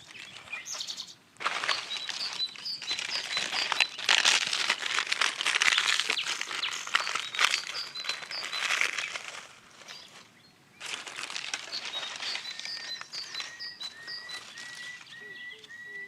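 Small birds chirping in short repeated notes over a dense crackling, rustling hiss. The hiss drops out briefly about a second in and again around ten seconds in, and a run of short rising chirps comes near the end.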